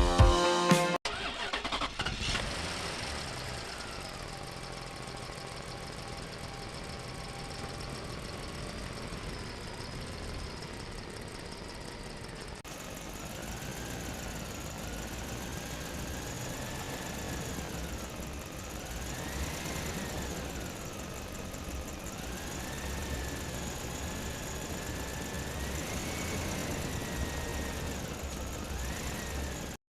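Small motor of a toy vehicle running, its whine rising and falling, after a burst of music that stops about a second in.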